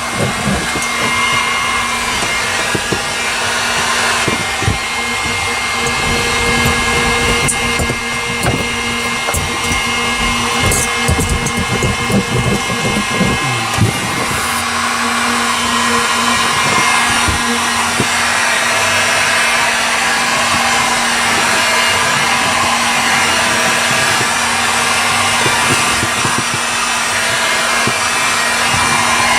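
Heat gun blowing steadily, with a constant hum. Short knocks and rubbing come over it in the first half and die down about halfway through.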